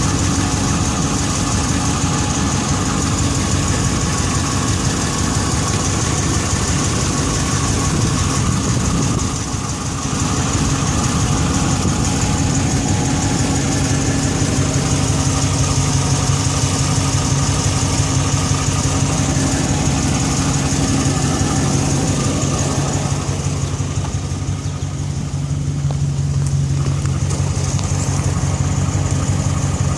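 Ram truck's Chrysler Hemi V8 idling steadily after a cold start, with the start-up noise that the owner hears for about the first five minutes of running and does not take for the Hemi tick or a broken exhaust manifold bolt. A steady high whine runs over the idle, and the sound dips briefly twice.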